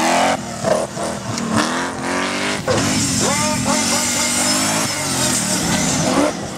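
Off-road competition 4x4's engine revving hard, its pitch climbing and dropping several times as the driver works the throttle.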